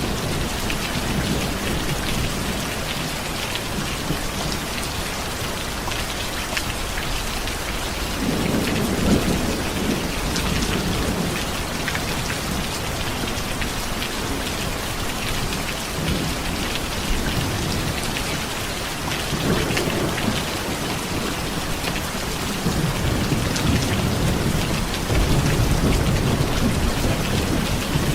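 Steady rain falling, with low rolls of distant thunder: one about a third of the way in, a shorter one about two-thirds in, and a longer rumble building near the end.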